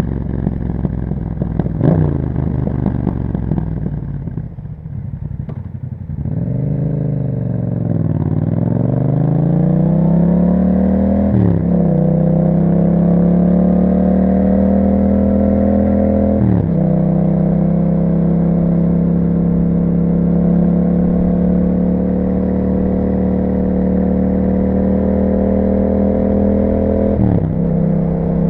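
2021 Yamaha MT-07's parallel-twin engine through an aftermarket Akrapovic exhaust with the dB killer partly removed. It eases off and the note drops, then it accelerates, the pitch climbing with quick upshifts about a third of the way in and again past the halfway mark. It then settles into a steady cruise, with one more shift near the end.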